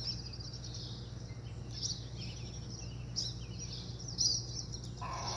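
Small birds chirping a few times, short high calls, over a steady low hum.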